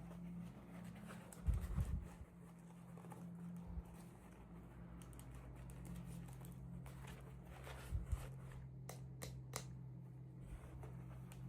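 Toy packaging being handled during unboxing: a few soft knocks and a short run of sharp clicks over a low steady hum.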